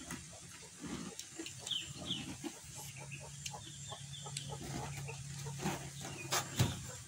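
Close-up eating sounds of a person chewing raw vegetables and rice by hand, with short crunches and mouth clicks, the loudest near the end. Chickens cluck in the background, and a low steady hum joins about two and a half seconds in.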